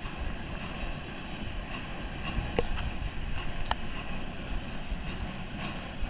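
Train rolling along the track: a steady rumble with a faint tick repeating about twice a second, and two sharper clicks near the middle.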